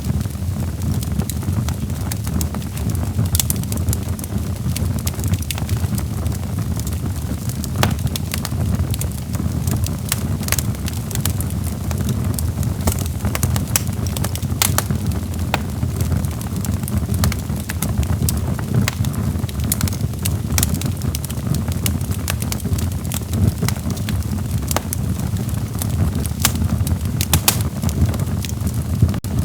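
Log fire crackling, with frequent sharp, irregular pops over a steady low rumble of the flames.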